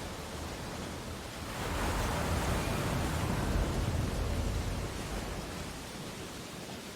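Ocean waves washing on a beach: a steady hiss of surf with one wave swelling up about a second and a half in and easing off a few seconds later.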